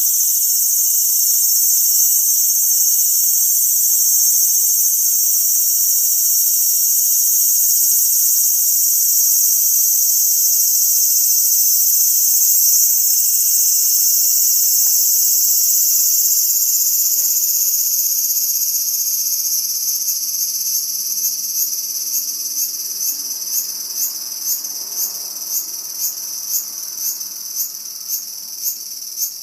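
Cicada calling at close range: a loud, steady high buzz that eases off after about 17 seconds and breaks into a run of rhythmic pulses, about one and a half a second, each rising slightly in pitch.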